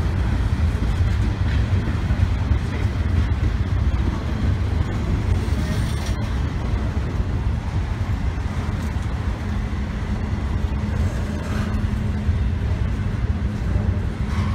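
Double-stack intermodal freight cars rolling slowly past on the rails, a steady heavy rumble.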